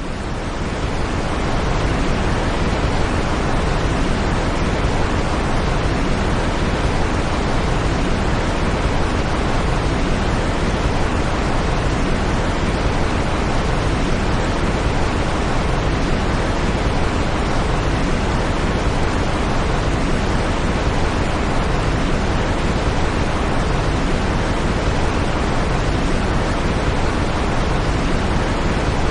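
Steady, smoothed white noise of the kind played as a sleep aid, an even hiss with no changes, fading in over the first second or so.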